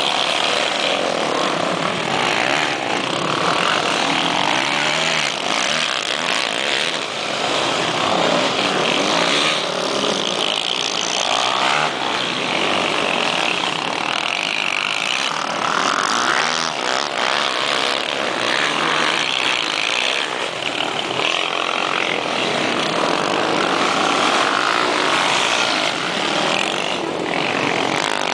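Motocross motorcycle engines running and revving, their pitch rising and falling as the throttle opens and closes.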